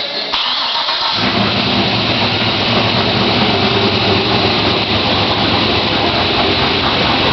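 The custom-cammed 6.0-litre V8 (LQ4) of a 2006 GMC Sierra 2500HD is cranked by its starter for about a second, catches, and settles into a steady, loud run on its first start with the new cam.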